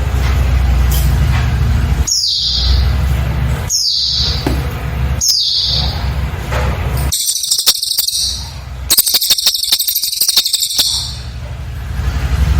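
Cililin bird singing: three short high notes falling in pitch, evenly spaced about a second and a half apart, then two bursts of rapid, dense high trilling, the second one longer. A steady low rumble runs underneath and drops out while the bird sings.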